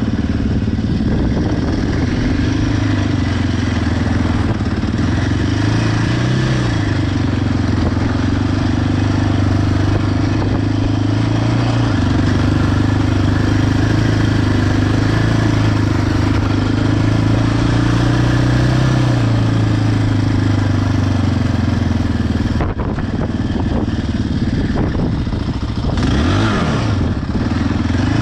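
Yamaha Raptor ATV's single-cylinder engine running at low, steady revs, with a short blip of the throttle about six seconds in and another near the end.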